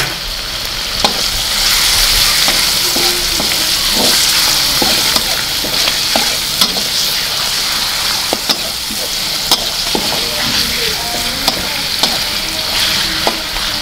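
Sliced pork sizzling in hot oil with garlic and shallots in a wok, stirred with a metal spatula that scrapes and clicks against the pan over and over.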